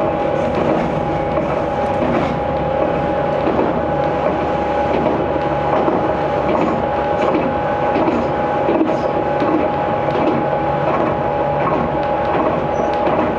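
Aizu Railway 6050 series electric train running at a steady speed, heard from inside the carriage: a continuous running rumble with a constant steady whine and light scattered clicks and rattles from the wheels and car body.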